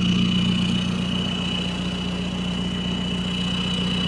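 Volkswagen car engine idling steadily while warming up on a cold morning, with a steady high-pitched whine running alongside.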